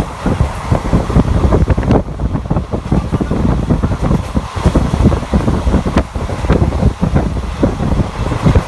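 Passenger train running at speed, heard from on board, with heavy wind buffeting the microphone and a rapid, irregular clatter of knocks and rattles.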